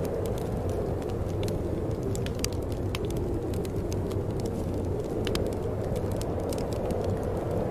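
Wood fire burning in a fireplace, crackling: many short, sharp snaps at irregular intervals over a steady low rumble of the flames.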